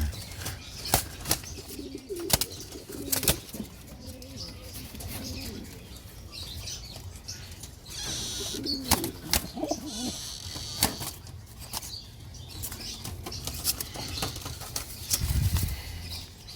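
A bird flapping its wings in short bouts, with scattered sharp clicks and knocks and a few short, low calls; a dull thump near the end.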